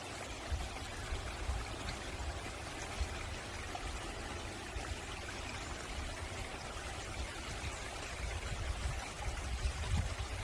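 Mountain valley stream flowing: a steady, even rush of water, with a low rumble underneath that grows a little near the end.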